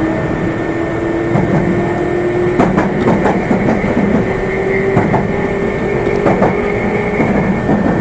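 Electric train running at speed on the Meitetsu Nagoya Main Line, heard from inside the car. A motor whine rises slightly in pitch under the wheel and rail noise, and the wheels click over rail joints several times.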